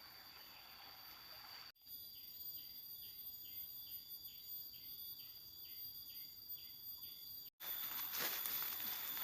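Forest insects chirring with a steady high-pitched drone. In the middle stretch a pulsing call repeats about twice a second. Near the end, louder rustling crackles come in over the insects.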